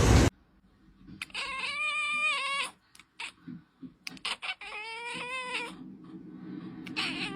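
A domestic cat meowing: two long, drawn-out meows, then a third starting near the end, with a few faint clicks between them. A burst of loud noise cuts off suddenly right at the start.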